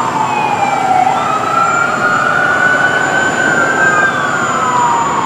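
Fire apparatus siren wailing, sliding slowly down in pitch, rising again about a second in, holding, then falling near the end, over steady engine and road noise.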